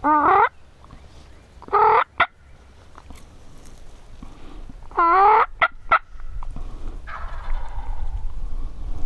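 Wild turkey gobblers gobbling: three loud gobbles about two and three seconds apart, then a fainter gobble near the end, over a low rumble.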